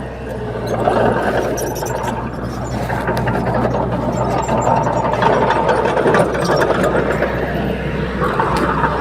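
Bulldozer's diesel engine running steadily, with a scatter of small clicks and rattles over it.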